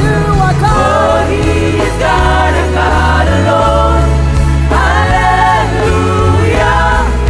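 Live gospel worship music: singers holding sung phrases over a band with a steady bass line.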